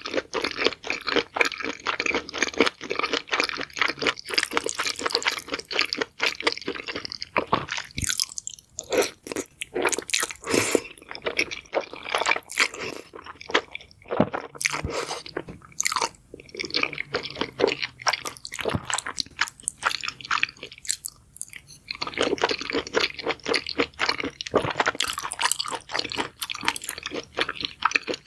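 Close-up sound of someone chewing crunchy food: rapid crackling crunches in bursts of bites, with brief pauses between mouthfuls.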